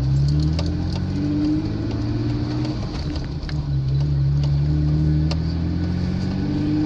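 Car engine and road noise heard from inside a moving car, the engine note rising and falling slowly as it speeds up and eases off, with a few light clicks and rattles.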